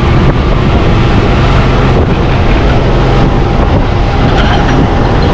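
MEMU passenger train running: a steady, loud noise of the moving train with a low hum, and wind buffeting the microphone.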